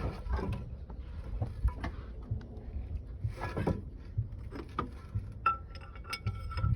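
Metal hand tools clinking and knocking on truck parts during mechanical repair work, with a metallic ringing tone held for about a second near the end.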